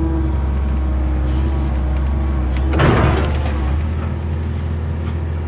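A motor vehicle's engine running steadily with a strong low hum, and a brief rushing noise about three seconds in.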